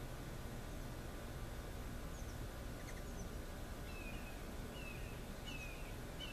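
Steady outdoor background noise with a small bird chirping. A few thin high peeps come a couple of seconds in, then short falling chirps about once a second in the second half.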